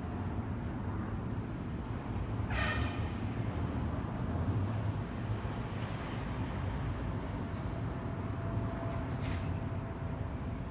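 Steady low rumble of a Boeing 787-9 airliner's jet engines heard from afar during its takeoff. A short high-pitched squeal, gliding slightly down, cuts in about two and a half seconds in.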